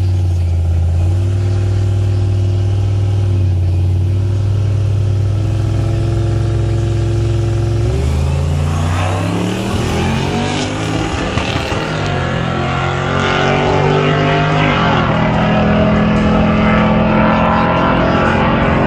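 Vehicle engine holding a steady low rumble, then from about eight seconds in rising sharply in pitch as it accelerates hard, with more than one engine tone sweeping up before settling at a higher, steady pitch.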